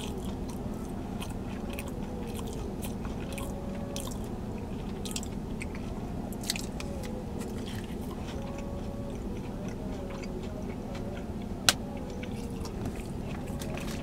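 Close-miked chewing of a mouthful of loaded tater tots, with small wet mouth clicks and smacks over a steady low hum. A single sharp click near the end is the loudest sound.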